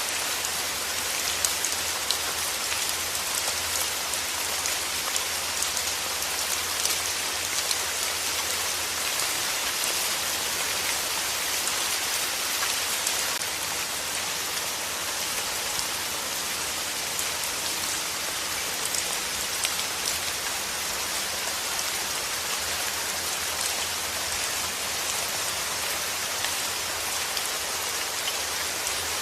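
Steady rain falling, a constant hiss dotted with many small, close drop impacts.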